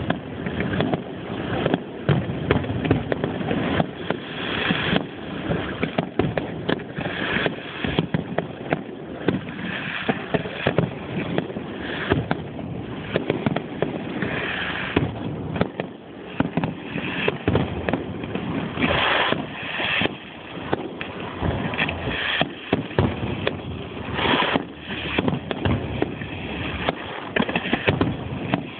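Fireworks display: a dense, continuous run of bangs and crackles, with stretches of fizzing crackle every few seconds.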